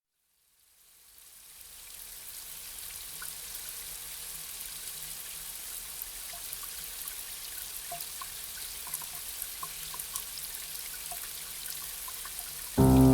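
Steady rain hiss fading in from silence, with scattered small drop ticks through it. Near the end, soft pitched music begins suddenly over the rain.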